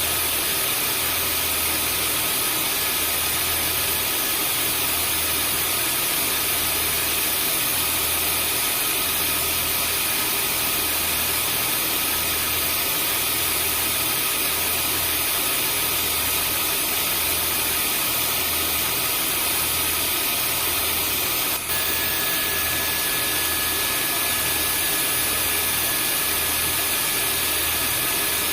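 Vacuum cleaner running steadily: a constant rushing whir with a high whine over it and a slow low throb pulsing underneath, about every second and a bit. About 22 seconds in there is a brief click, and the whine's pitch shifts slightly after it.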